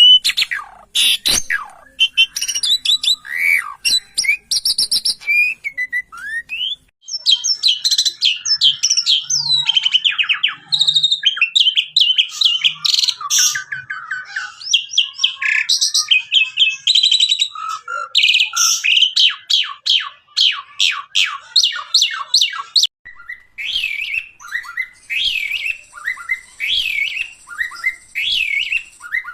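Javan pied starling (jalak suren) singing vigorously: a varied run of whistles, chattering sweeps and rapid clicking notes. Near the end the song settles into a repeated rising-and-falling whistled call about once a second.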